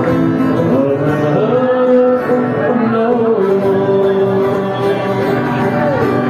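Live music: a voice singing long, wavering held notes over instrumental accompaniment.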